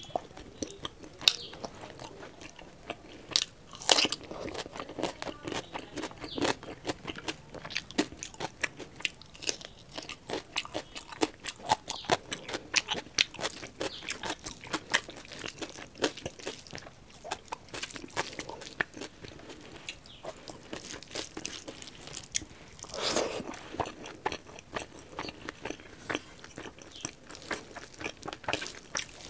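Close-miked chewing and biting of food eaten by hand, with many quick, irregular crunchy clicks, several a second, and a louder mouth sound a little after twenty seconds in.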